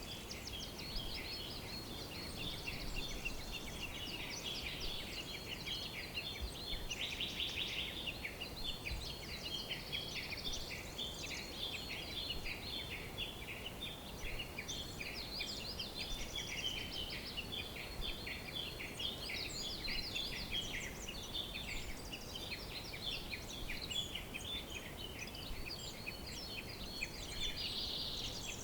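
A chorus of many birds singing and chirping at once, dense overlapping quick high notes, over a faint steady background hiss.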